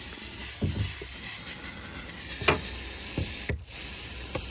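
Aerosol can of Armor All tire shine spraying in a steady hiss, with a short break about three and a half seconds in before it sprays again. A few light knocks are heard along with it.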